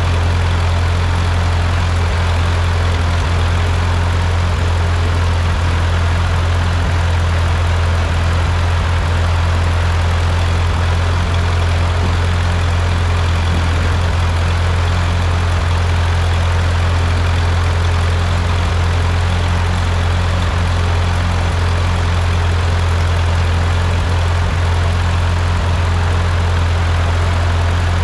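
Freshly rebuilt Ford 8N tractor's four-cylinder flathead engine idling steadily.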